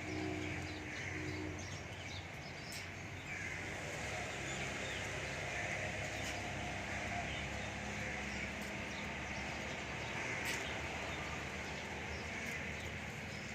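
Many birds chirping and calling together without a break, with low cooing and a few sharp clicks mixed in.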